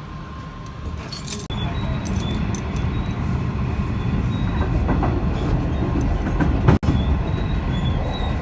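Running noise of a passenger train carriage heard from inside: a steady low rumble of wheels on the track with rattling. It gets suddenly louder about a second and a half in and cuts out for an instant near seven seconds.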